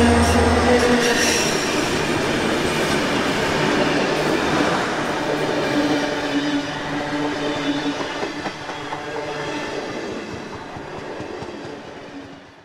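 Train running, with a steady mechanical noise and a few held tones; a deep low rumble drops away about a second in, and the sound fades out near the end.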